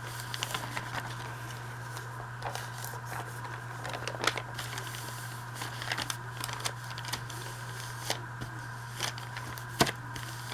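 Paper rustling and crinkling as old envelope paper is handled, with scattered sharp ticks, the loudest near the end, over a steady low hum.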